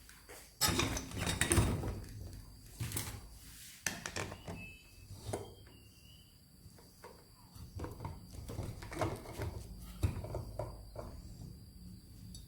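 Irregular knocks, taps and clatters of objects being handled, with no motor running. The loudest knocks come about a second in and again around ten seconds in.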